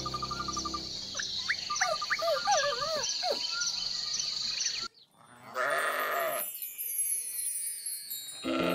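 High squeaky calls rising and falling over a steady high tone, then after a sudden cut, bleating: one call of about a second, and another starting near the end.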